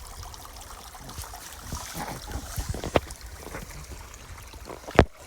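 Creek water trickling and running steadily, with a few scattered knocks and one loud sharp thump near the end.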